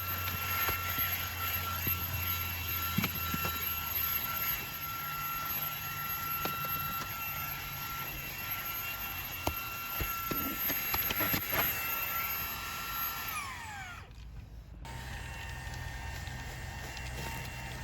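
Fanttik V8 Apex cordless handheld vacuum running with a steady high whine, with scattered ticks of debris being drawn through the nozzle. About 13 seconds in the motor is switched off and its whine falls in pitch as it spins down.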